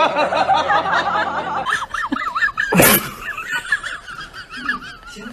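High-pitched, wavering laughter-like giggling, with a loud sharp burst of noise about three seconds in.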